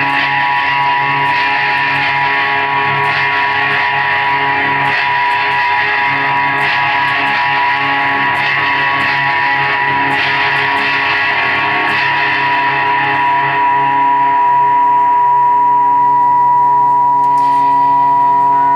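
Live rock band playing an instrumental passage: electric guitar through effects over sustained droning tones, with light regular ticks about once a second for most of it before the sound swells slightly near the end.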